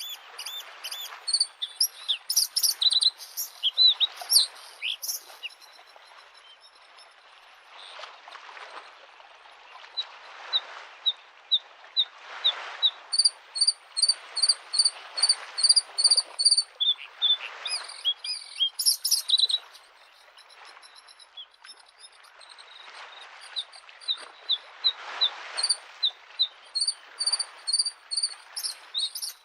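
Bluethroat singing: runs of quick, evenly repeated high notes and twittering phrases, broken by short pauses. Beneath it, small lake waves wash against the shore in soft swells every couple of seconds.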